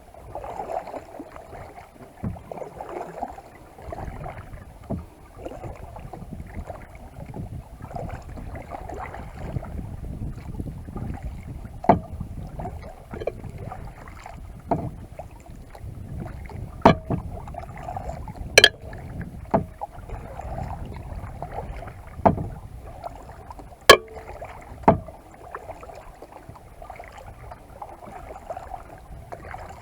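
Kayak paddling: paddle blades dipping and splashing with water running off them, and a few sharp knocks now and then, the loudest two about 18 and 24 seconds in.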